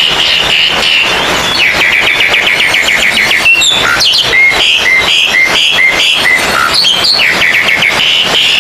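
Oriental magpie-robins (kacer) singing loudly in a dense, overlapping chorus of rapid trills, chirps and whistled notes, with a run of short, evenly repeated notes in the middle.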